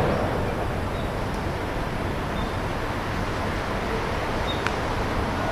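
Steady outdoor background noise with a faint click about four and a half seconds in.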